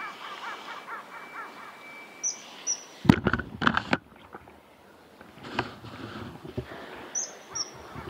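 Wild birds calling outdoors. One bird gives a fast run of repeated notes, about five a second, over roughly the first second and a half. A pair of short, sharp, high notes comes a little over two seconds in and again about seven seconds in. A louder, rough burst of sound comes about three to four seconds in.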